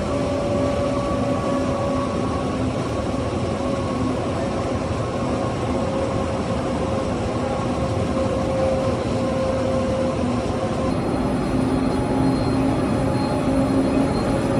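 A train running through the station: a steady rumble with a few held humming tones over it, growing slightly louder near the end.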